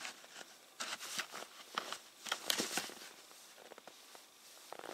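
Irregular crunching and rustling of snow and sticks, a few short scrapes and crackles a second, while a snowed-over fire site is cleared.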